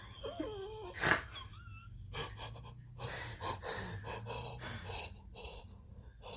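A person's gasps and heavy breathing, with a short wavering moan about half a second in, then a run of breathy exhalations about two a second.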